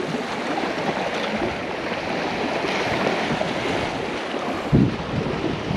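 Ocean surf washing on the beach with wind buffeting the microphone, a steady rushing noise; one stronger gust thumps the microphone near the end.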